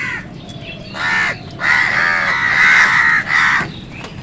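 Crows cawing: a short caw at the start, another about a second in, then a long run of loud, harsh caws and a last caw near the end.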